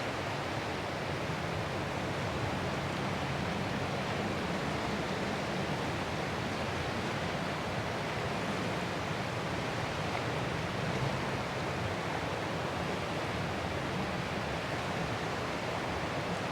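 Ocean surf heard as a steady, even roar of waves, with no single crash standing out.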